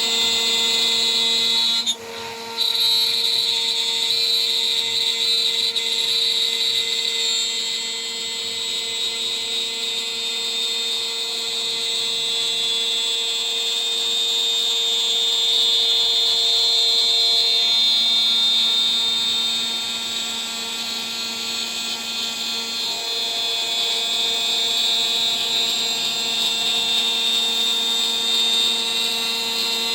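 CNC router spindle turning a 3 mm three-flute end mill at about 14000 RPM while it mills, a steady high whine over a lower hum. The sound drops out briefly about two seconds in, and the tones shift a couple of times as the cut changes.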